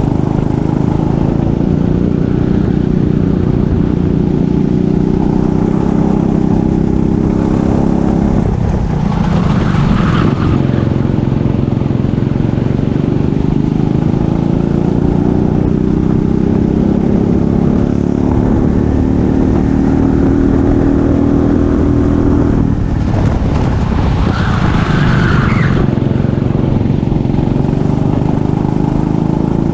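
Racing kart engine running hard during a race, its pitch climbing slowly along the straights and dropping sharply twice, about 9 seconds and 23 seconds in, as the kart slows for corners. Short bursts of noise come through each corner.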